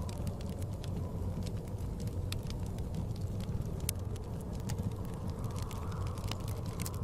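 Fireplace crackling, with many scattered sharp snaps, over the steady low rumble and faint whistling of blizzard wind.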